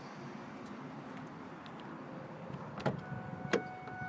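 Two sharp clicks inside the cab of a 2000 Ford F-350, followed about three seconds in by a steady electronic warning tone from the dash that holds on as the ignition is switched on before the first start.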